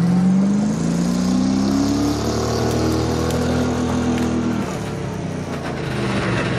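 Off-road 4x4's engine revving: the pitch climbs over the first two seconds, holds steady, then falls away a little before five seconds in.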